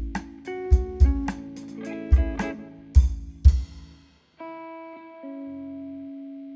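Live instrumental quartet of guitars, bass and drums ending a tune: a run of accented hits punched by low drum thumps, then one held final chord that rings for about two and a half seconds and cuts off.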